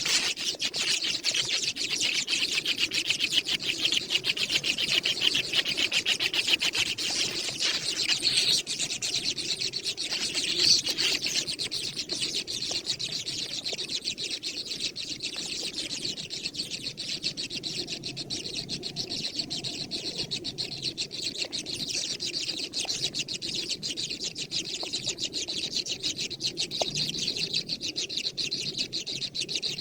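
Young birds calling nonstop in a rapid, dense chatter, a little louder in the first several seconds.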